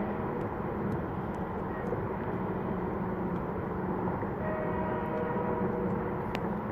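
An engine running steadily: a low drone with a few held tones that shift slightly partway through.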